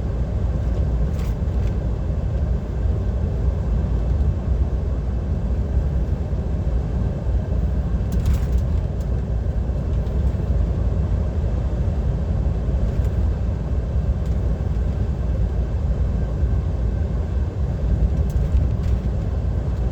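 Steady low rumble of a DAF XF 530 lorry on the move, heard inside the cab: the engine, a 12.9-litre six-cylinder diesel, running at cruise with tyre and road noise, plus a few faint ticks.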